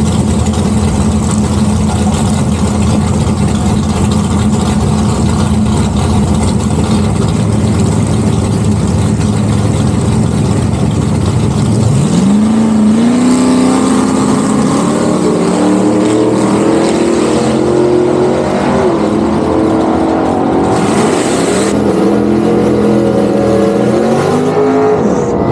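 A car engine drones steadily at cruise. About 12 seconds in it accelerates hard, the pitch climbing through several gears, each upshift dropping the note before it climbs again.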